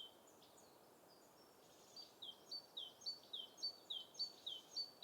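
Songbird singing faintly, a rapid series of short high chirps, each a quick falling note paired with a brief flat one, repeating about twice a second from about two seconds in, over a soft background hiss.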